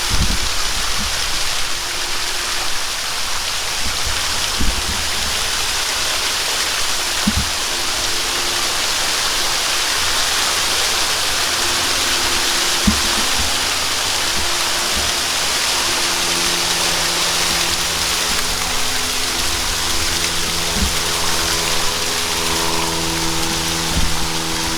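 Waterfall pouring steadily, a continuous rushing hiss of falling water with a few low thumps. From about halfway through, steady sustained tones come in underneath and build toward the end.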